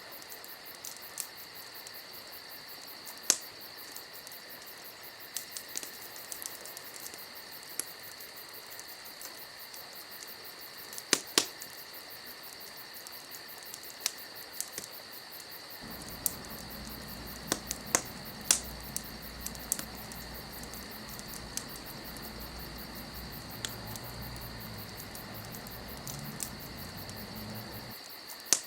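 Crackling fire with scattered sharp pops, over a steady high-pitched chirring. A low rumble comes in about halfway through and stops just before the end.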